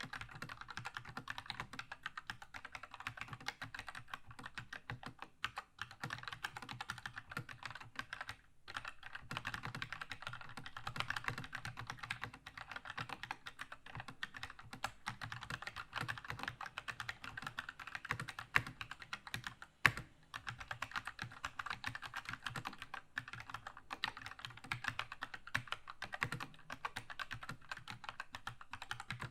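Continuous fast typing on a Keychron K2 mechanical keyboard with red linear switches: a dense patter of keystroke clacks with brief pauses about five and eight seconds in, and one louder single clack at about twenty seconds.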